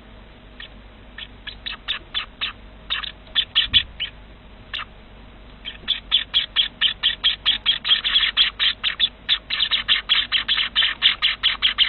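Small ornamental cage birds chirping in short, sharp notes. The notes are scattered at first, then from about halfway come in a fast, even run of about five a second.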